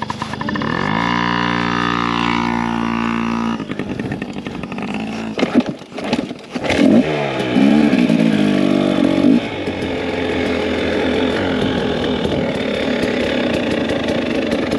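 Two-stroke dirt bike engine revving up and holding the revs, dropping away with a few sharp clunks about halfway through, then revving again and settling into a steady run.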